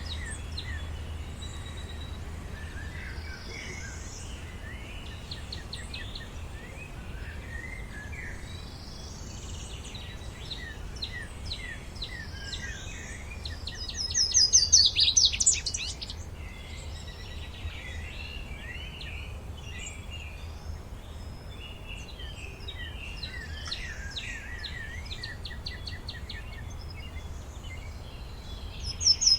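Songbirds chirping and calling in a forest, several overlapping. About halfway through, one bird gives a loud, rapid run of notes, and another begins near the end. A steady low rumble runs underneath.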